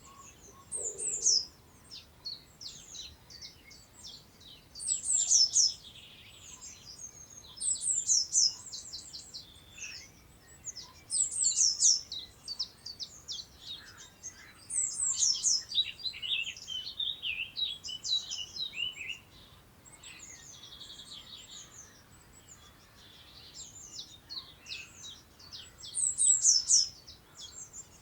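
Songbirds singing: short phrases of quick, high, downward-sweeping notes, repeated every few seconds.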